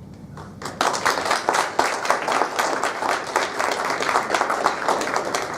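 A small group of people clapping, starting abruptly about a second in and going on steadily.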